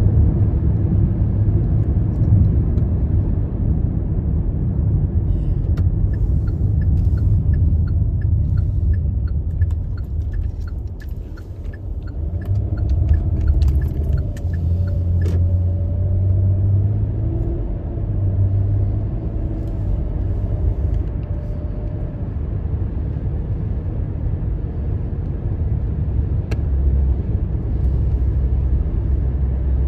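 Truck cabin while driving: steady engine and road rumble. From about five seconds in, a turn-signal indicator clicks evenly about twice a second for some ten seconds while the truck slows, then the engine pulls away again.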